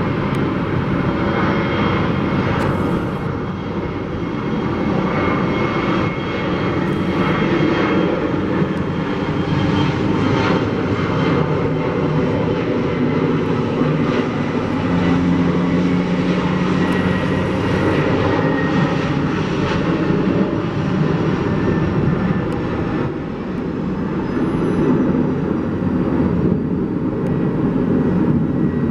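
Airliner jet engines running loud and steady, a dense rush with a faint high whine, as an aircraft takes off or lands.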